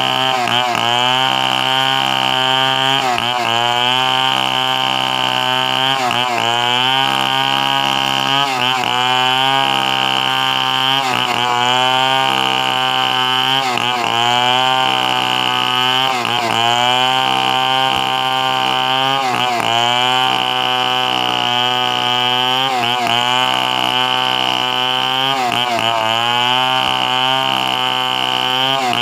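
Chainsaw running at high speed while cutting wood, its engine pitch dipping briefly and recovering about every two to three seconds as the chain takes the load.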